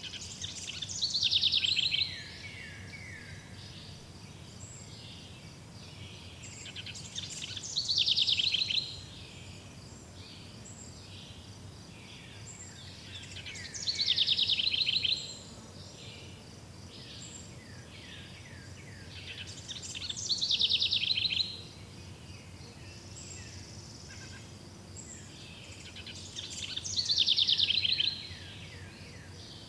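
Forest ambience: a songbird repeats the same short, rapid, high trilled song five times, about every six and a half seconds. Faint chirping and a low steady hiss lie beneath.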